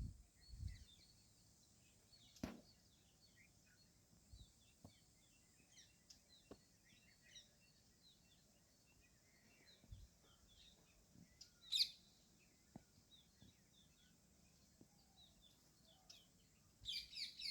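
Faint background chorus of small birds chirping, many short high notes, with a brief louder high call about twelve seconds in and a burst of calls near the end. A few soft knocks are heard now and then.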